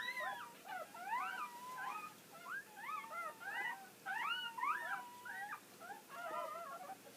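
Newborn puppies squeaking and whimpering: many short high cries that rise and fall, several at once and overlapping, with now and then a longer held whine.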